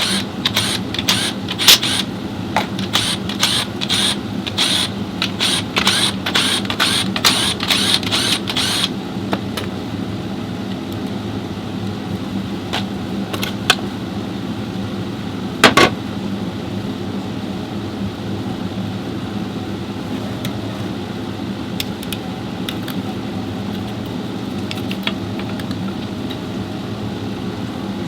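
Rapid, irregular clicking and clatter for about the first nine seconds, over a steady mechanical hum. After that the hum carries on alone, broken by a few isolated clicks, one sharper than the rest about halfway through.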